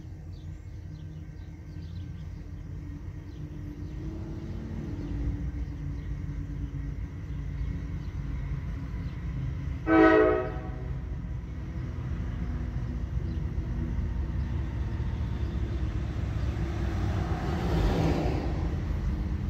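Norfolk Southern diesel freight locomotives approaching and rumbling, growing louder as they near, with one short horn blast about halfway through.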